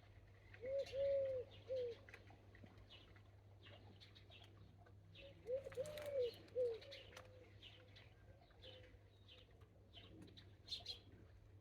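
A dove cooing twice, each time a low three-note phrase with a longer middle note, over faint high chirping of small birds in the background.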